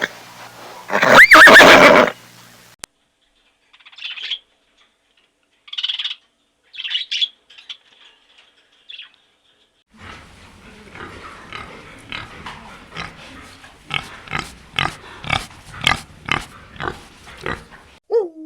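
A run of different animal calls: one loud call about a second in, then a few short high chirps, then short repeated calls about two a second.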